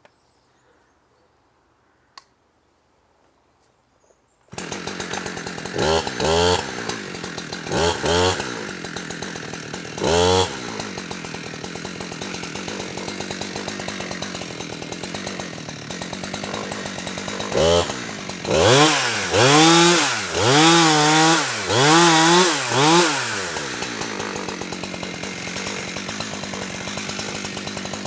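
Near silence for the first few seconds, then a two-stroke chainsaw is suddenly running at idle, blipped on the throttle three times, then once more, and then revved up and down several times in a row, before settling back to idle.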